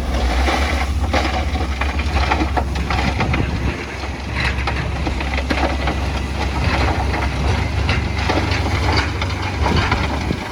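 Heavy diesel machinery running steadily under load, with loose stone and rock crunching and clattering as it is moved.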